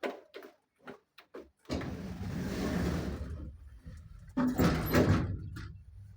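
Automatic sliding doors of an MLM 400 kg passenger lift running along their track, with a rumble about two seconds in. A few light clicks come before it, and a louder clatter follows about four and a half seconds in.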